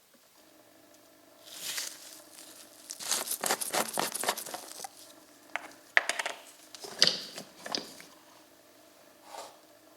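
Rustling and a run of small sharp clicks and taps, as of something being handled, over a faint steady hum.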